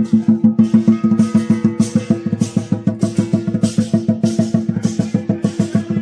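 Lion dance percussion: a large Chinese drum beaten in fast, even strokes, with cymbals clashing about twice a second.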